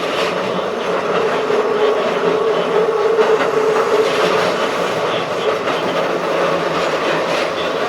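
Keikyu 1500 series field-chopper-controlled electric train running at speed: a steady rumble of wheels on rail with light rail-joint clicks. A steady mid-pitched hum fades away about halfway through.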